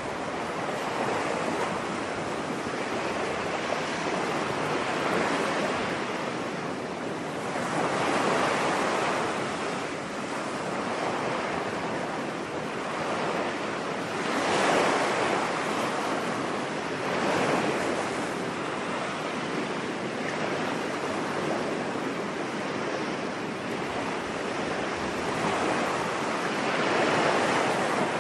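Ocean waves on a beach: a steady hiss of surf, with louder waves swelling and breaking every few seconds.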